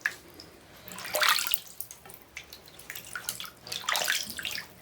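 Shallow bath water in a tub splashing and sloshing in irregular bursts as a young opossum moves about in it, loudest about a second in and again near the end.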